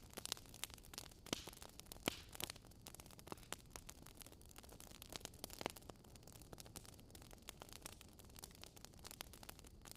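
Wood fire crackling, with irregular sharp pops and snaps over a faint soft hiss.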